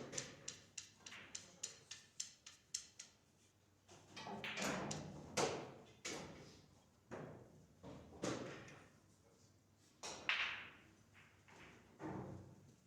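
Pool balls clacking on a pool table: a quick run of small clicks at the start, then a few louder knocks, each followed by a rolling rumble.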